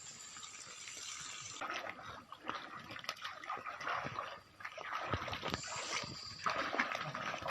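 Faint water splashing and trickling, with scattered small knocks and clicks.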